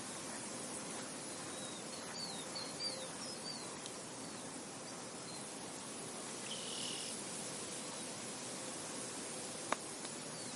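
Soft, steady wind blowing over an open field, with small birds chirping: a quick run of about five short high chirps a few seconds in and another brief call about seven seconds in. A single sharp click near the end.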